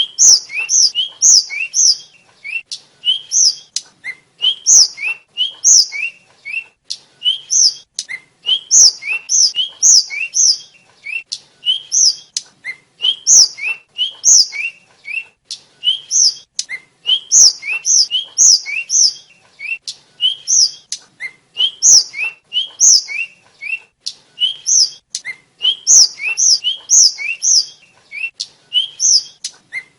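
A small flycatcher, the songbird Indonesian bird keepers call tledekan or sikatan, singing quick runs of short, high rising whistled notes with sharp clicks among them, repeated phrase after phrase.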